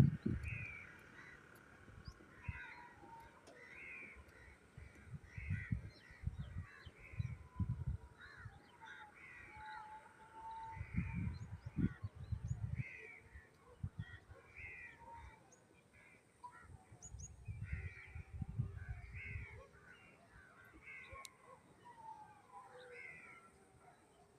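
Birds calling repeatedly, short harsh caw-like calls about once a second, over intermittent spells of low rumbling.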